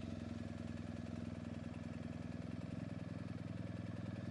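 BMW R1250GSA's boxer-twin motorcycle engine running at a steady, even speed, a low drone with no change in revs.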